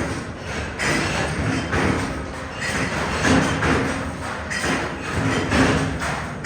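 Factory machinery in a hex nut works running, with repeated thuds and clatter about once a second.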